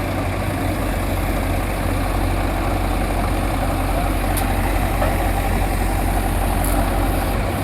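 Tractor engine idling, a low steady hum.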